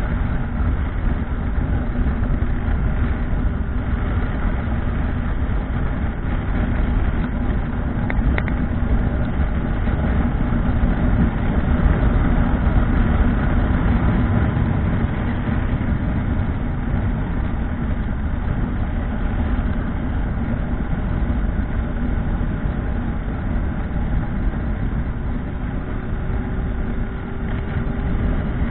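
Motorcycle engine running steadily under a constant rushing noise, as heard while riding.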